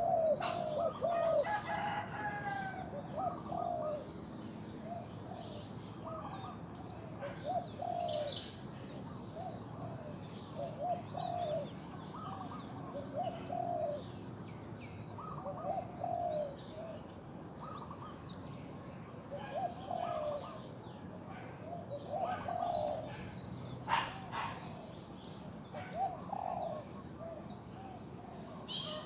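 Spotted doves cooing over and over in short repeated phrases, with a high pulsed chirp repeating about every two seconds.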